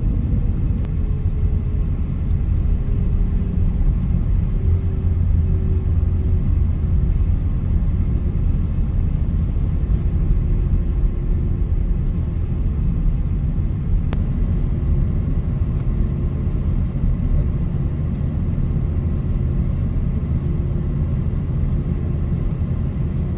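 Steady low cabin rumble inside an Airbus A330-900neo airliner, with the hum of its Rolls-Royce Trent 7000 engines sinking slightly in pitch over the first few seconds before holding steady.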